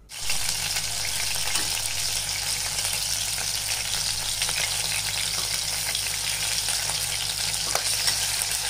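Spice-marinated squid rings frying in hot oil in an aluminium kadai, a loud, steady sizzle with fine crackling, while a slotted metal spoon stirs them.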